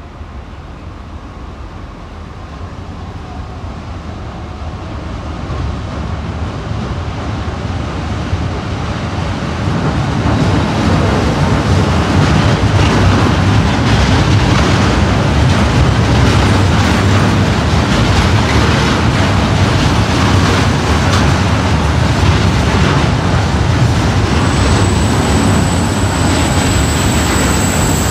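A train approaching and passing close by on the track: its running noise grows steadily louder over about ten seconds, then holds loud as the train goes past, with a faint regular beat of the wheels. A thin high whine comes in near the end.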